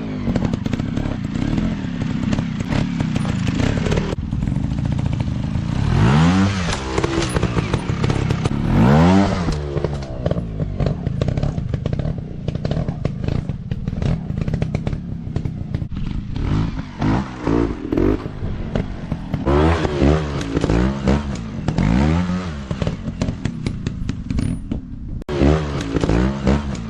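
Dirt bike engines revving up and dropping back again and again, the pitch rising and falling several times, with some clattering.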